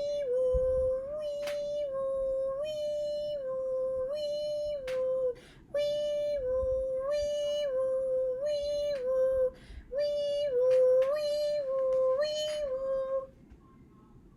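A two-tone fire-engine siren sound, 'nee-naw', switching back and forth between a high and a low pitch, in three runs with short breaks between them.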